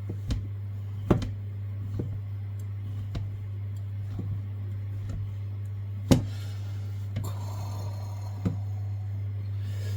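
Kitchen knife chopping chestnut mushrooms on a chopping board: single sharp knocks at an uneven pace of about one a second, the loudest about six seconds in, over a steady low hum.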